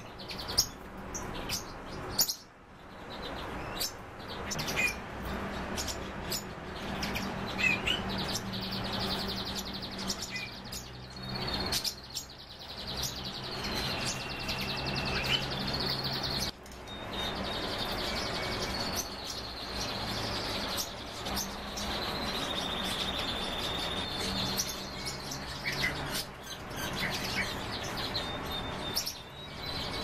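Several cage birds chirping and calling, with short trills and sharp calls overlapping, over a low steady hum.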